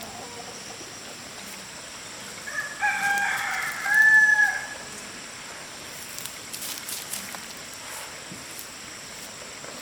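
A rooster crowing once, a few seconds in, ending on a long held note.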